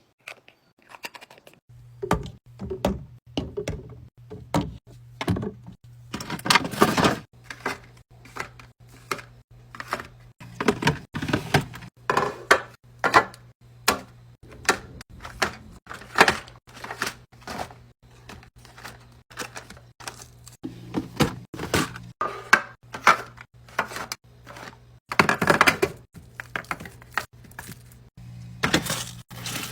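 Food containers and packaging being set down and arranged on fridge shelves: a busy, uneven run of clicks, knocks and taps, with a few longer rustling handlings. A low steady hum sets in about two seconds in.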